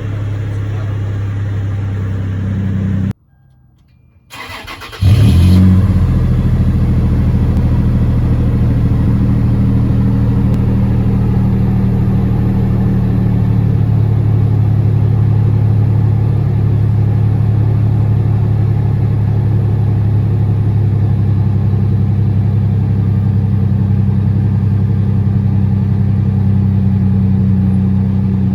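2013 Toyota 4Runner's 4.0-litre V6 running through a Spintech muffler exhaust. About three seconds in it stops, and a second or so later it is cranked and starts with a brief flare, then settles into a steady idle.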